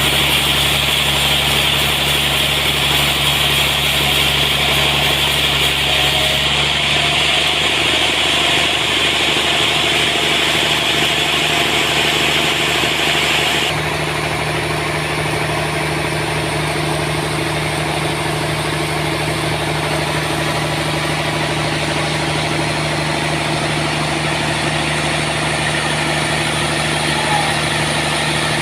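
Engine of a homemade sawmill running steadily. A higher hiss over it cuts off suddenly about halfway through.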